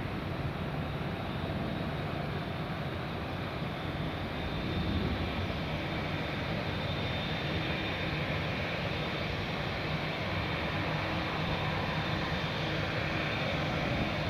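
Jetstar Boeing 787-8 Dreamliner's jet engines during its departure: a steady jet noise with a thin high whine running through it.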